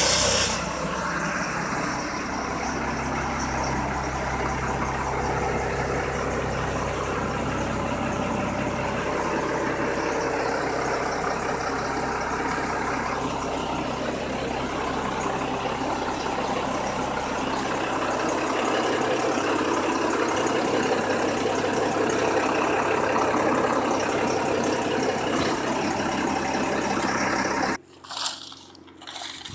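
Dump truck engine idling steadily, then the sound cuts off abruptly near the end.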